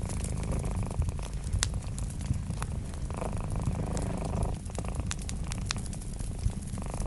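Cat purring steadily as a low rumble that swells with each breath, over a wood fire crackling with frequent sharp pops.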